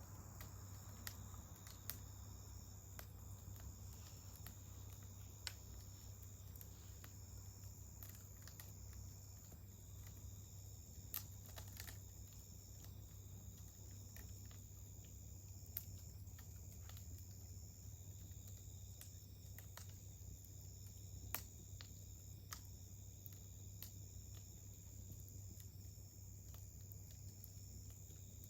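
Wood campfire crackling, with scattered sharp pops, over the steady high trilling of crickets.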